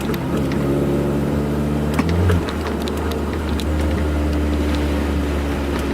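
Honda F22B1 2.2-litre SOHC VTEC four-cylinder engine running steadily as the car drives, its note dropping slightly about two seconds in.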